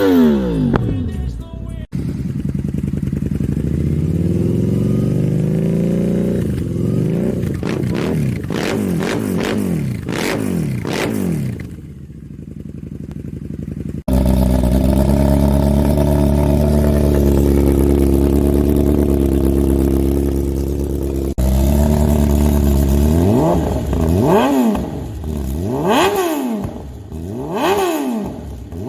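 Motorcycle engines revving through loud aftermarket exhausts, in several cut clips. One revs up slowly, then gives a run of throttle blips. Another holds a steady high note for several seconds, and near the end a bike gives a series of sharp revs, about one a second.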